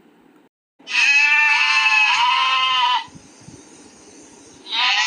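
Sheep bleating: two bleats back to back, then another begins near the end.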